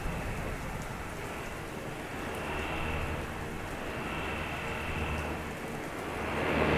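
Steady heavy rain, with low thunder rumbling and building up near the end.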